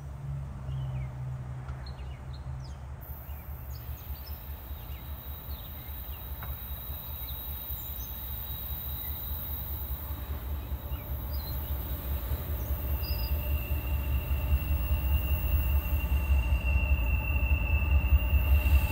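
Approaching CSX freight train: a low steady rumble of diesel locomotives and rolling wheels that grows louder throughout. A thin, steady high tone joins about two-thirds of the way in.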